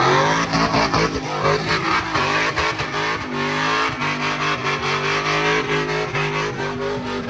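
A car engine revs up sharply at the start, then is held at high revs, rising and falling with a rapid stutter. The car is spinning its tyres on wet pavement in a sideshow stunt.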